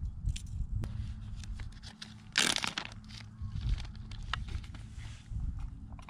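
A zip-top plastic bag is handled and pulled open, with one loud crinkling rustle of the plastic about two and a half seconds in and light clicks and taps around it. Wind rumbles on the microphone underneath.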